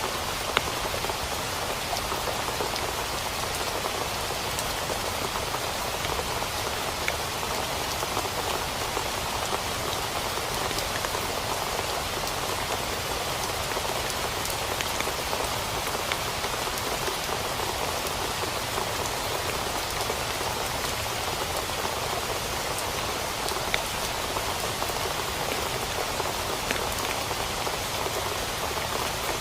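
Steady rain falling on a tent, a constant patter with scattered louder drop taps.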